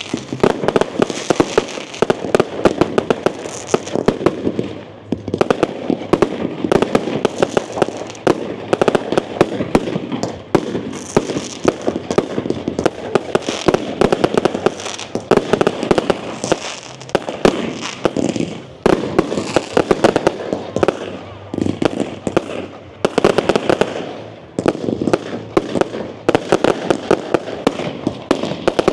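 Fireworks display going off: a dense barrage of rapid bangs and crackles with barely a pause, easing off briefly a few times.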